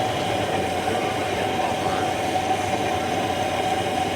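Lanz Bulldog tractor's single-cylinder hot-bulb engine running steadily, with a constant high whine over it.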